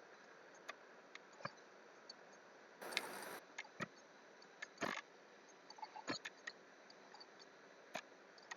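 Scattered computer keyboard and mouse clicks, irregular and sparse, with a short rustling burst about three seconds in.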